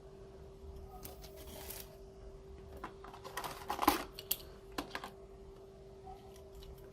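Plastic toy construction vehicles being handled and set down: a scatter of light clicks and taps, the sharpest about four seconds in, over a faint steady hum.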